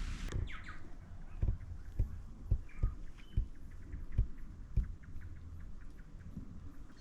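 Heavy raindrops dripping onto a canvas awning: about seven soft, irregular thuds with fainter ticks among them. A steady rain hiss cuts off suddenly just after the start.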